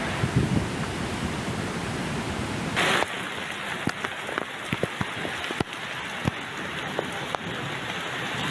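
Heavy rain with rushing water. About three seconds in, the sound changes to steady rain with many sharp, single drops tapping close by.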